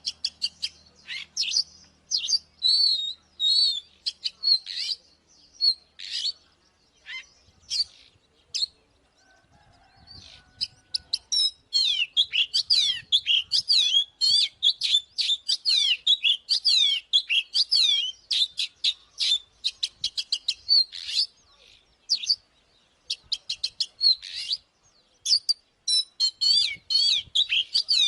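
Oriental magpie-robin singing in quick, varied whistled phrases. After a short pause near the middle it breaks into a long, dense run of rapid notes.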